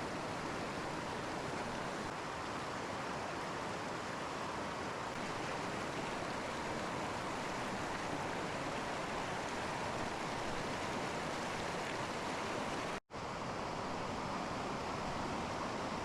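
Steady rush of a mountain stream, an even hiss of running water that breaks off for an instant near the end.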